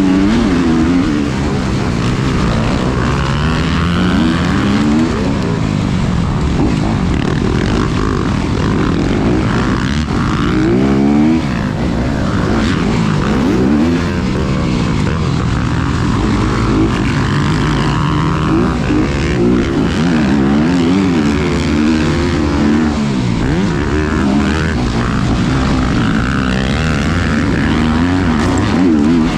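Honda CRF250RX dirt bike's single-cylinder four-stroke engine running hard on a motocross track, its pitch rising and falling over and over as the throttle is rolled on and off and the gears change.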